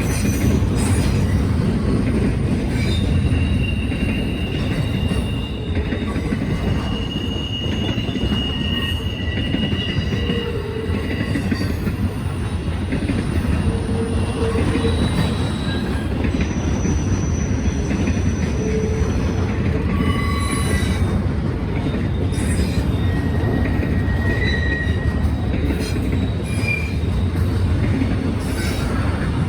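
Norfolk Southern freight train rolling past: a steady, loud rumble of cars on the rails, with short high wheel squeals coming and going throughout.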